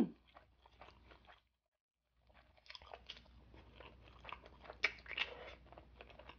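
Close-miked chewing of spicy boneless chicken feet with a furikake rice ball: soft, irregular wet crunches and mouth clicks, broken by a brief dead-silent gap about a second and a half in.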